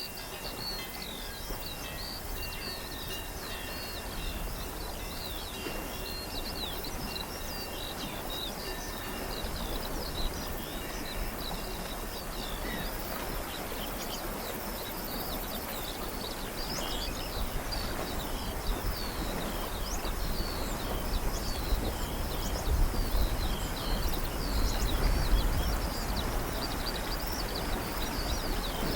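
Many small birds chirping and twittering over steady outdoor background noise. A low rumble builds up in the second half.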